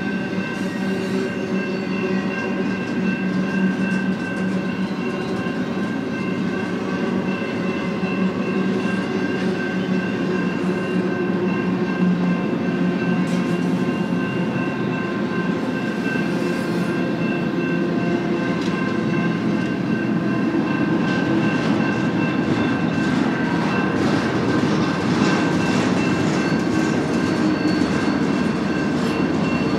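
BNSF freight train cars rolling past on the rails: a continuous rumble and clatter of wheels, with a steady whine running through it, getting slightly louder toward the end.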